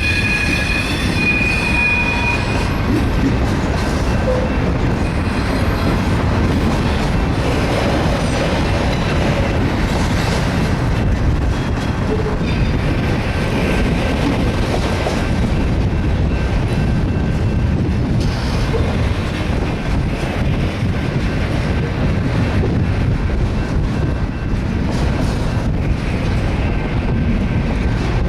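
BNSF auto rack freight train rolling past: a steady, loud rumble of steel wheels on rail, with a high wheel squeal near the start.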